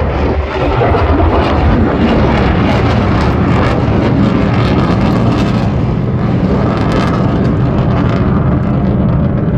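An aircraft flying past during an air display: a loud, steady engine roar.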